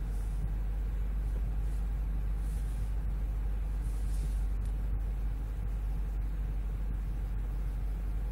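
Steady low rumble of engine and road noise inside the cabin of a 2014 Range Rover Sport V8 Supercharged, driving at an even pace with no revving.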